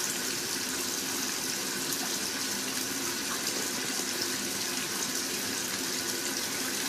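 Steady rush of running water with a faint hum beneath it.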